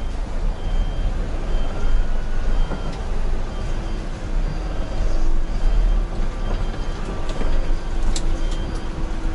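Concrete mixer truck running, a steady heavy low rumble of its diesel engine, with a faint high beep repeating at an even pace.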